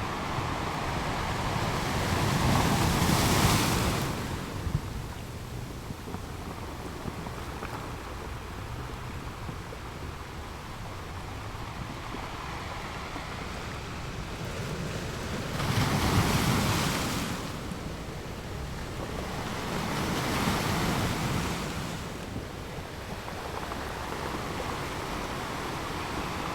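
Surf on a sandy beach: a steady hiss of breaking waves that swells three times as waves wash in, about three seconds in, then around sixteen and twenty seconds. Wind rumbles low on the microphone throughout.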